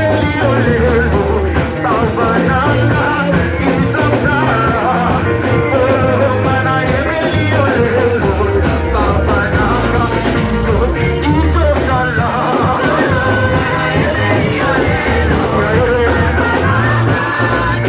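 Live church worship music: a band playing loudly with voices singing over strong bass.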